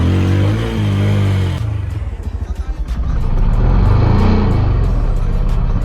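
TVS Apache RTR 160 4V single-cylinder motorcycle engine under hard throttle for a wheelie. The engine note falls as the throttle comes off in the first second and a half, then runs lower and swells again about four seconds in.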